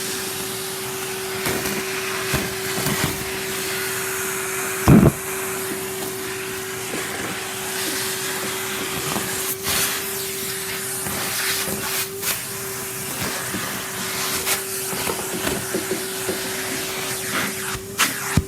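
Henry canister vacuum cleaner running with a steady whine and rushing hiss, with scattered clicks and rattles as debris is sucked up the pipe, and one loud thump about five seconds in.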